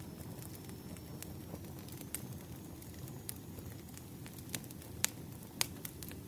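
Wood fire crackling: a steady low rumble with scattered sharp pops and snaps, the two loudest near the end.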